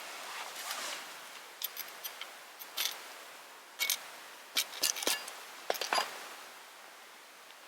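Wood snapping and crackling: scattered sharp cracks and clicks over a faint steady hiss, with a quick cluster of snaps a little past the middle.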